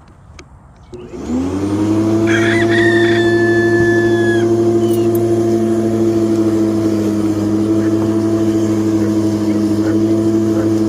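Ework electric lawn mower motor starting about a second in, rising quickly in pitch as it spins up, then running at a steady hum. A rooster crows once over it, a little after the motor starts.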